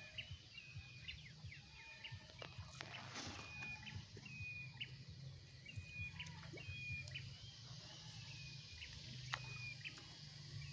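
A bird calling over and over, one short high call about every second, over a low steady hum, with a few sharp clicks.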